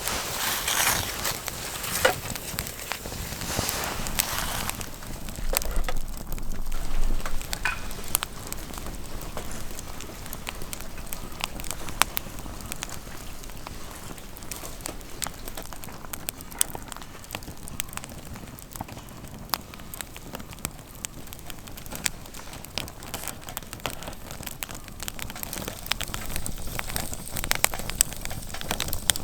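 Wood campfire crackling, with sharp irregular pops and snaps over a steady hiss that is louder for the first few seconds.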